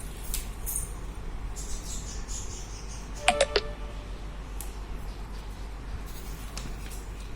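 Three or four quick metallic clinks about three seconds in, from metal kitchen utensils striking each other, with a short ringing after each, over a faint steady low hum.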